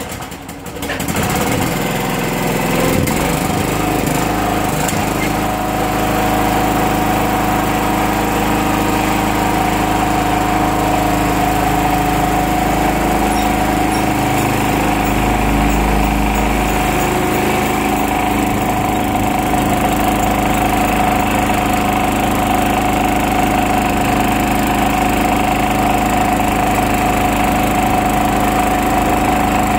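1973 Ingersoll garden tractor's engine catching about a second in after being cranked on choke, then running steadily.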